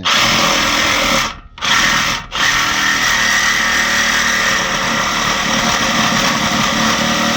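Power saw cutting through the steel exhaust pipe to remove the rear muffler. It starts at once, stops twice briefly in the first few seconds as the trigger is let off, then runs steadily.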